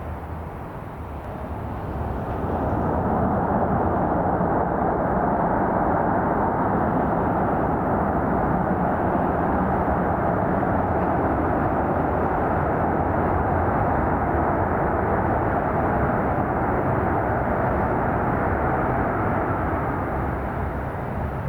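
Jet airliner engines running loud as the aircraft moves past. The noise swells about two seconds in, holds steady and eases a little near the end.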